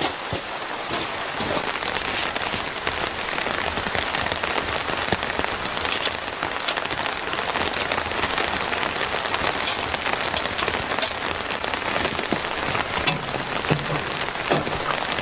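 Steady rain falling, with many separate drops striking close to the microphone throughout.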